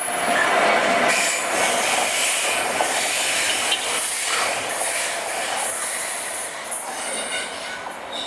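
A train moving past on the rails: a loud, dense rushing and rumbling noise with a little wheel squeal, growing fainter in the last few seconds.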